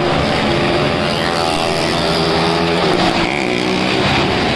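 Small car engines running inside a well-of-death wooden drum, their pitch rising and falling as they are revved.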